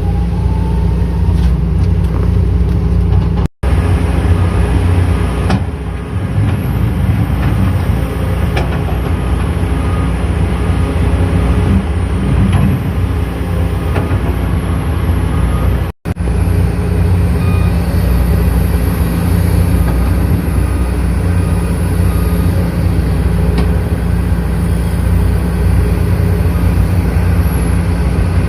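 Heavy diesel engine of mining machinery such as a hydraulic excavator, running steadily under load. The sound cuts out abruptly for a moment twice.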